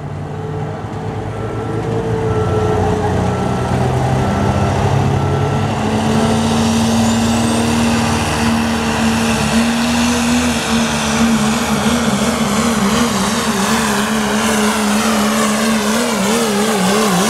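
Diesel pickup truck in the 3.0 turbo class pulling a weight-transfer sled at full throttle, its engine and turbo running loud and steady. Near the end the engine pitch wavers rapidly up and down as the truck bounces down the track.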